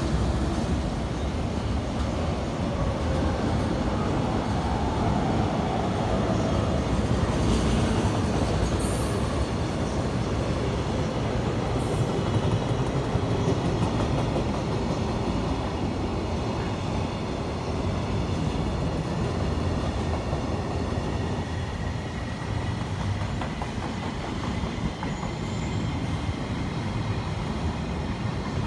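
JR Freight container train hauled by an EF210 electric locomotive passing close by: the locomotive goes past at the start, then a long string of container wagons follows, with steady wheel-on-rail rolling noise and clatter.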